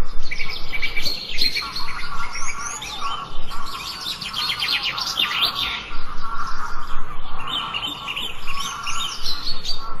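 Several songbirds chirping and singing at once, with overlapping calls and a fast, dense trill in the middle.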